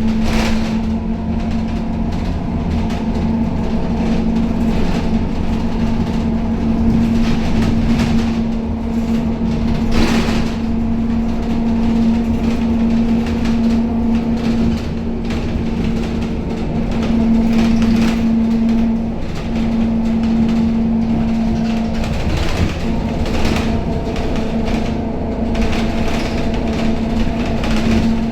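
Inside a Scania K270UB city bus under way: a steady engine and driveline drone with a constant hum, low road rumble, and occasional rattles and knocks from the body, one sharper knock about ten seconds in.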